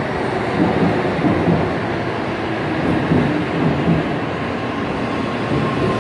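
N700A Shinkansen train moving along the platform: a steady, even noise of wheels on rail and the passing cars.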